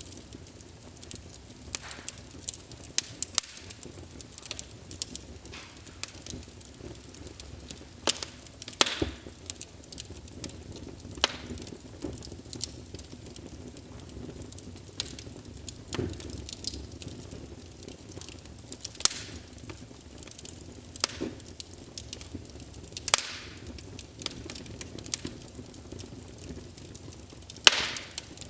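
Wood fire burning in a fireplace: a low steady rumble of flames with irregular crackles and sharp pops from the burning logs, the loudest pop near the end.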